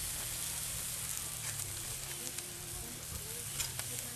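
Basted chicken pieces sizzling on a charcoal grill: a steady hiss with scattered small crackles and pops.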